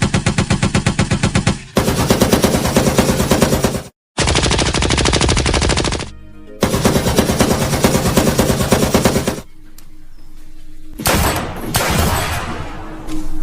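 Machine-gun fire sound effect: four long bursts of rapid shots, each lasting two to three seconds. Then a quieter stretch, and a single sudden blast that dies away near the end.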